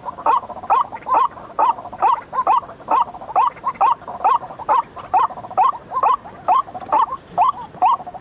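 White-breasted waterhen (ruak-ruak) calling over and over in a fast, even rhythm of about two loud calls a second. It is the bird's call used as a lure to draw other waterhens in.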